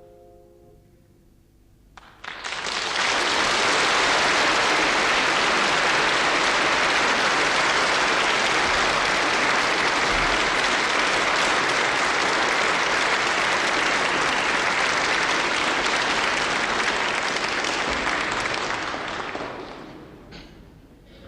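Audience applauding, starting suddenly about two seconds in, holding steady and dying away near the end.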